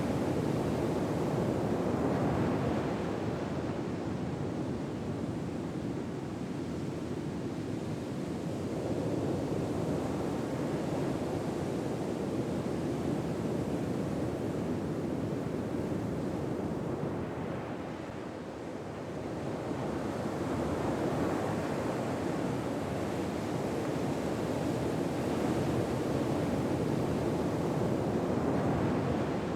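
Ocean waves washing on a shore, a steady wash that swells and ebbs slowly every several seconds.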